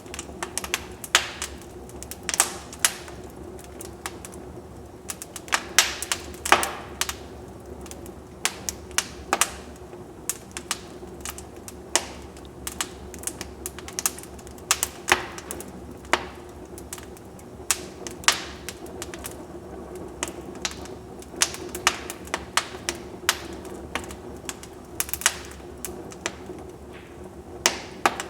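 Wood fire burning in a fireplace, crackling with irregular sharp snaps and pops over a steady low background.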